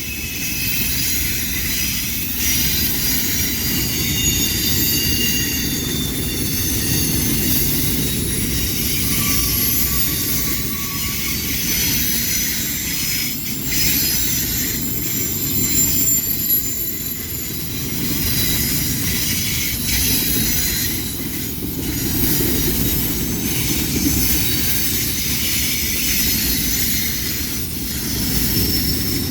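Freight train cars rolling past: a steady rumble with high-pitched wheel squeal, and now and then a knock of wheels over the rail joints.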